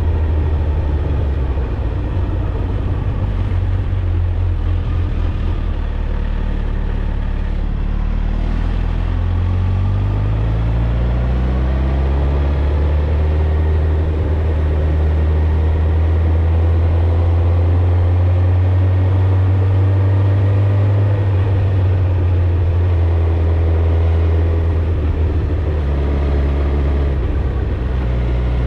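Suzuki GSX-R1000's inline-four engine and exhaust under way, holding a steady note, dipping about a third of the way in, then climbing as it accelerates and settling into a steady cruise before easing off near the end.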